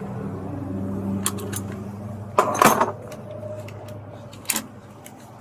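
Low steady hum of a car engine running and fading, with a few sharp clicks and knocks over it, the loudest cluster about two and a half seconds in.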